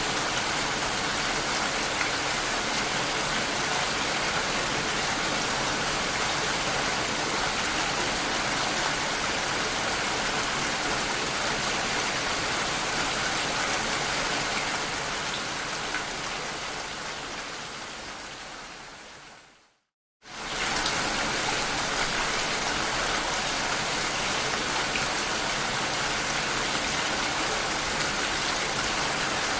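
Steady rain heard through a glass door, an even hiss of falling water. Past the middle it fades away over several seconds to a moment of complete silence, then starts again abruptly at full level.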